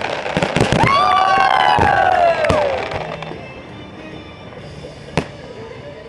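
Fireworks display: dense rapid bangs and crackling for the first few seconds, with a long pitched tone that falls away near the end of the barrage, then thinning to scattered pops and one sharp bang about five seconds in.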